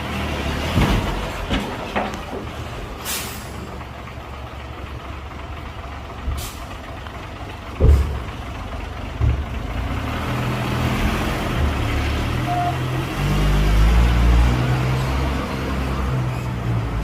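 Hyundai dump truck's diesel engine running, with short hisses of air brakes releasing about 3 and 6 seconds in and several clunks, the loudest a heavy thump about 8 seconds in. The engine grows louder in the second half.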